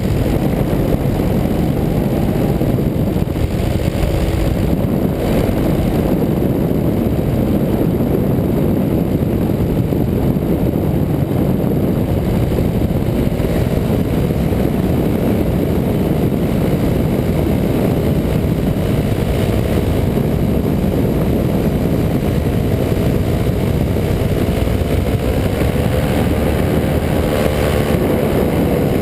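185 cc paramotor's two-stroke engine and propeller droning steadily in flight, the engine note rising slightly near the end.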